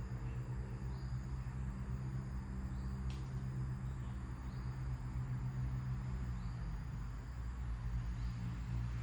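Small birds chirping faintly, a short high chirp every second or two, over a loud steady low hum. A single sharp click comes about three seconds in.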